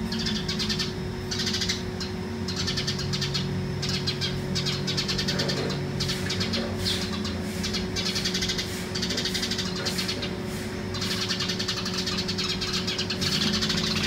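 Small birds giving rapid, repeated harsh alarm calls while mobbing a cat, over a steady low hum.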